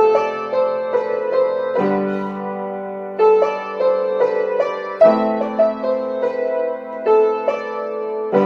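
Piano played with the sustain pedal: a melody in the right hand over ringing left-hand chords, a new low chord struck about every three seconds.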